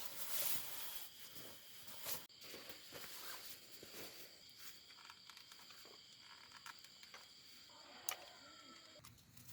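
Faint outdoor ambience with a few soft clicks and a faint steady high-pitched hum.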